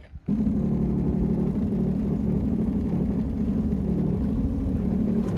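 An engine running steadily at an even speed, a low rumble that starts abruptly about a quarter second in.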